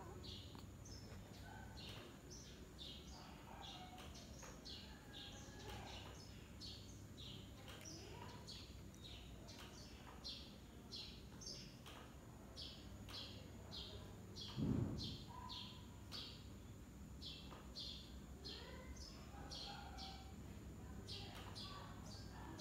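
A bird chirping over and over, short high chirps at about two a second, faint behind a low steady hum. About two-thirds of the way in there is one brief, louder low thump.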